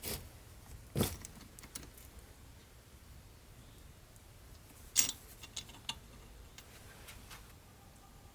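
A few sharp metal clinks and knocks, one at the start, one about a second in and another around five seconds in, each followed by a few lighter ticks, as metal vise parts are handled.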